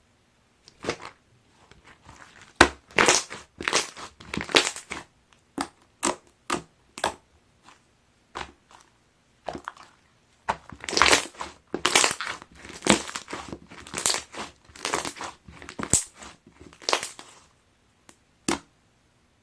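Clear slime being squeezed and pressed by hand: irregular sticky crackles and pops of trapped air, in two busy stretches with a lull in the middle.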